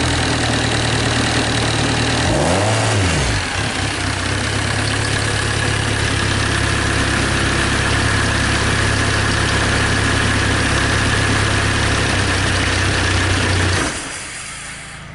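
SsangYong D20DTF 2.0-litre four-cylinder diesel engine running out of the car on a test run, idling steadily. About two and a half seconds in it is revved once briefly and falls back to idle, and near the end it is shut off and runs down.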